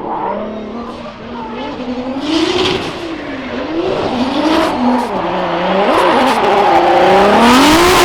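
Audi RS5 drift car's VR6 engine revving up and down again and again, over squealing tyres as it drifts.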